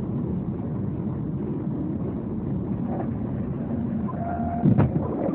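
Steady car driving noise as picked up by a dash cam, with a single sudden loud thump about three-quarters of the way through.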